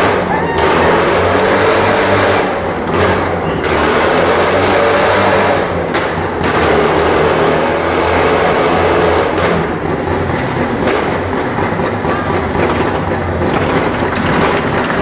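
Jawa motorcycle engine running and revving, its note rising and falling.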